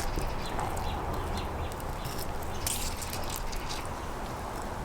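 Grohmann #2 Trout & Bird knife cutting along a trout's backbone while filleting, giving scattered small clicks and scrapes, the busiest about halfway through, over a steady low rumble.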